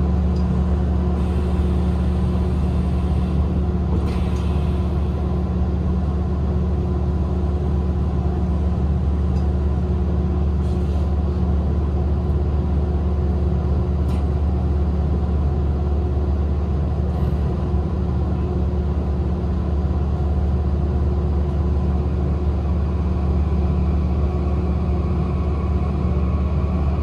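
Running sound of a Hankyu 2300 series electric train, heard inside the passenger car in a tunnel: a steady low rumble of wheels and traction gear with a few held tones. A higher tone comes in near the end.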